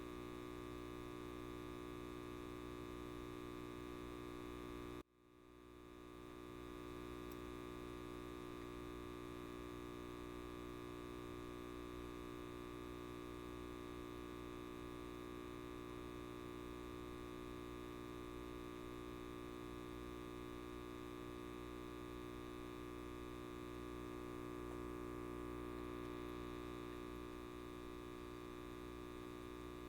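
Steady electrical buzz of a light bulb, a dense mains hum made of many fine even tones. About five seconds in it cuts out abruptly and fades back in over a second or two.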